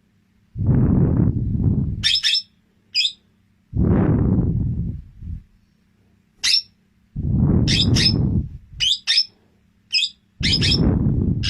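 Small pet parrot giving short, sharp, high-pitched chirps, singly and in quick clusters. Four loud, low bursts of noise, each lasting a second or two, come between and under the chirps.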